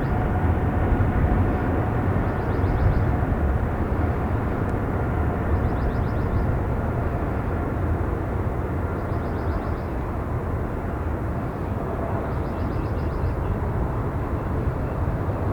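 Steady roar of jet airliner engines, mixed with a heavy wind rumble on the microphone.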